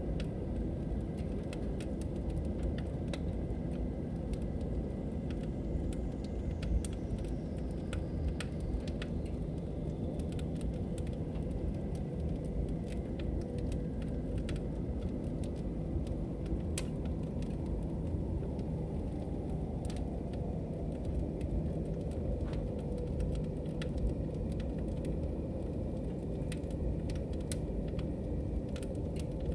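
Log fire burning with a steady low rumble and frequent sharp crackles and pops. A faint whistle falls in pitch a few seconds in.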